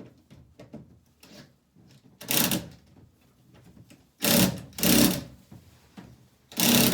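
Cordless power driver running screws in four short bursts of about half a second each, starting about two seconds in. Faint handling clicks come before the bursts.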